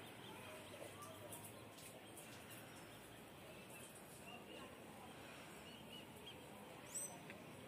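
Near silence with faint, scattered bird chirps in the distance; one brief, sharper, higher chirp near the end.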